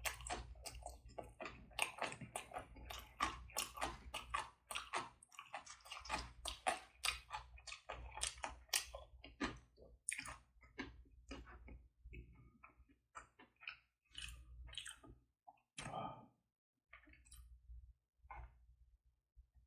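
A person chewing a mouthful of food close to the microphone: rapid wet smacks and clicks of the mouth, thinning out to occasional ones after about twelve seconds.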